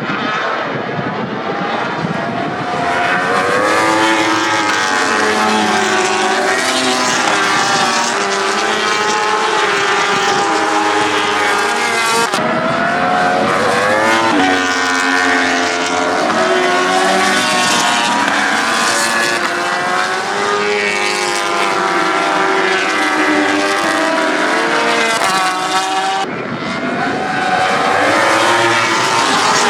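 Several racing motorcycle engines revving hard, their pitch climbing and dropping through gear changes as bikes pass. The sound changes abruptly twice, about twelve seconds in and again near the end.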